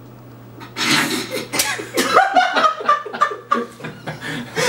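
Men laughing, breaking out about a second in after a quiet moment, in short repeated bursts.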